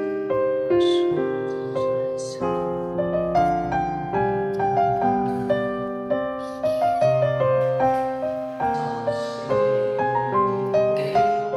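Background piano music: a gentle melody of held notes and chords.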